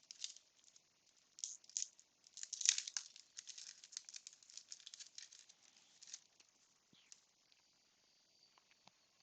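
Wax-paper baseball card pack and its cards being handled: quick crinkling and rustling, loudest about three seconds in, thinning out to a few light clicks after about six seconds.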